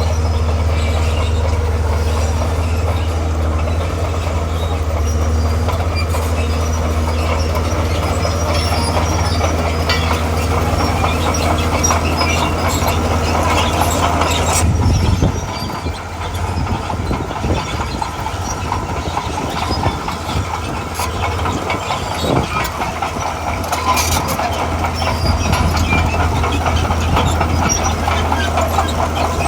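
Diesel engine of a tracked earthmoving machine running under load, with its steel crawler tracks clattering and squeaking. The steady low engine drone drops away about halfway through, leaving rougher, uneven clanking.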